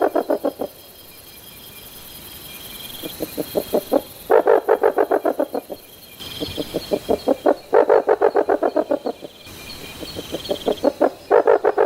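Rusty-barred owl calling: repeated series of rapid, deep hoots, about ten notes a second, each series building in loudness over about two seconds and coming every three to four seconds.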